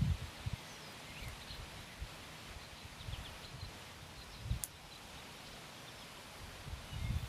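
Outdoor ambience: a steady low hiss with faint, scattered bird chirps, and wind buffeting the microphone in low rumbles, strongest right at the start.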